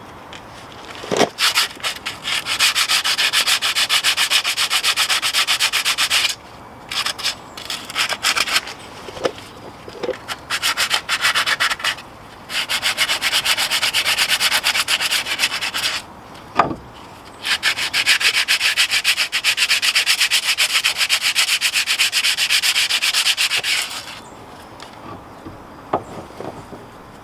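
A hand wire brush scrubbing rust and dirt off brake parts in fast back-and-forth strokes. It comes in three long spells with short pauses and a few knocks between them.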